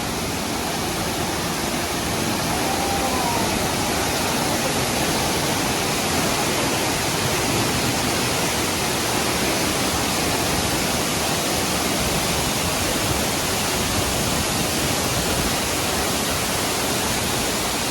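Waterfall rushing steadily, a dense even hiss that grows a little louder over the first few seconds.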